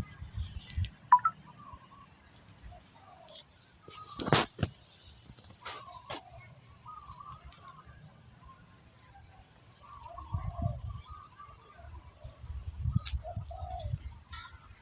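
Small birds chirping in short, repeated calls, with a few sharp clicks about four and six seconds in and some low thumps near the end.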